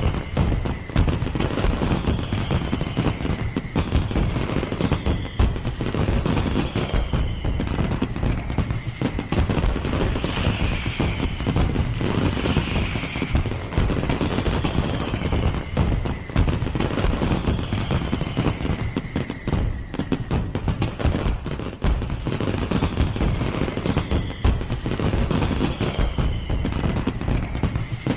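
Fireworks display: a dense, continuous barrage of rapid crackling bangs, like a fusillade, with short falling whistles repeating every second or two.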